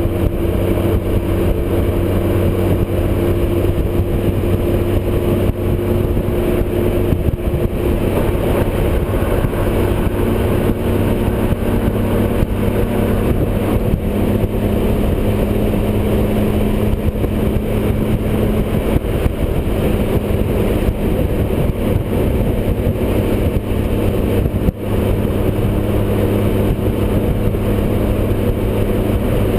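Touring motorcycle's engine running steadily at highway cruising speed, its pitch holding level, under constant wind rush.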